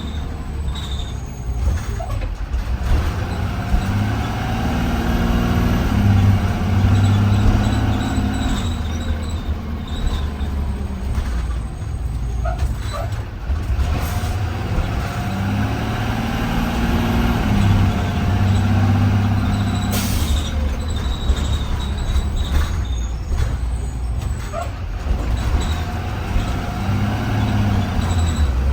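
2020 Blue Bird Vision school bus under way, heard from inside: the engine climbs in pitch as it accelerates and drops back at each gear shift, several times over. About 20 seconds in there is a short, sharp hiss of air from the air brakes.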